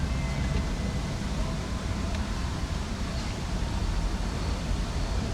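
Steady urban lakeside ambience: a low, even rumble of distant city traffic with faint voices of people in the distance.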